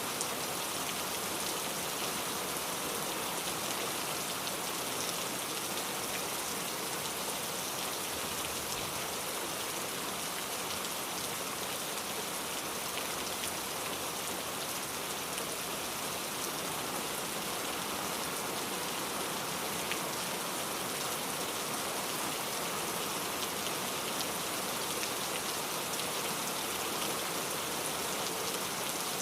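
Steady rain falling, with many small drops pattering on a surface; the sound stays even throughout.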